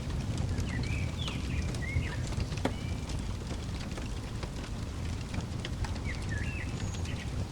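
Fireplace crackling, with scattered sharp pops over a steady low rumble of the fire. Small birds chirp in short quick phrases about a second in and again near the end.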